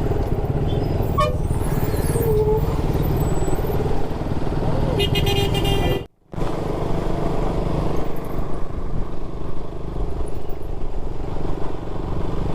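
Motorcycle riding sound on an onboard mic: steady engine and wind noise through traffic, with a vehicle horn honking briefly about five seconds in. The sound cuts out for a moment just after the horn.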